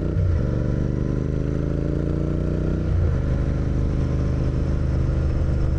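Motorcycle engine accelerating through the gears, its pitch climbing steadily and dropping back at an upshift near the start and again about halfway through.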